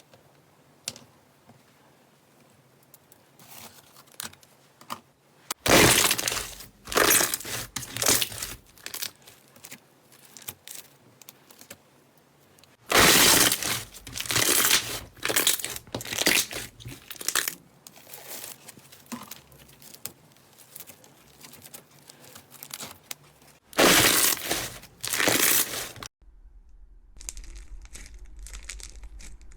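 Slime being squeezed and pressed by hand, making crackling, crunching sounds in three long bursts with quieter crackles between them. Near the end the sound cuts to a faint low hum with light ticking.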